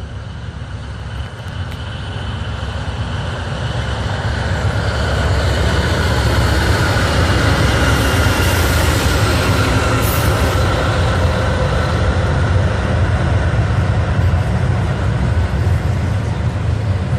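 Norfolk Southern diesel-hauled freight train approaching, its low engine rumble growing louder over about five seconds, then rolling past steadily.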